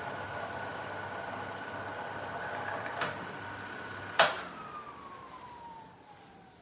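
Boxer 12-inch box fan running with a steady motor whine and air noise, then a small click and, about four seconds in, a loud switch click. The motor is switched off, and its whine falls steadily in pitch as the blades coast down.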